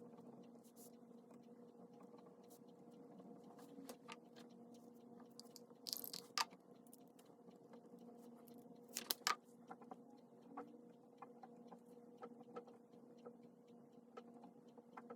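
Pen writing on paper: faint, irregular small scratches and taps over a low steady hum, with two louder brief scrapes about six and nine seconds in.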